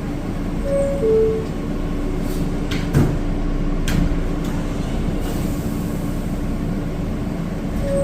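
R160 subway car's two-tone door chime, a high note dropping to a lower one, about a second in and again near the end, over the car's steady hum. A sharp knock comes about three seconds in.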